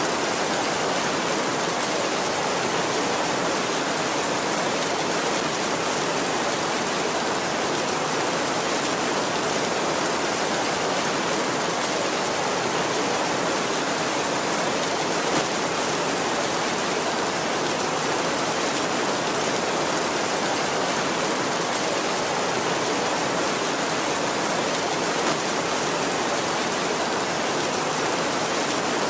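Heavy rain falling steadily on a tin roof, a constant even hiss with no let-up.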